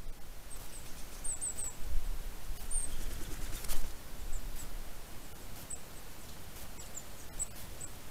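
Small birds giving short, high chirps scattered throughout, some in quick little runs. A low rumble swells in the middle, with a sharp click a little after halfway.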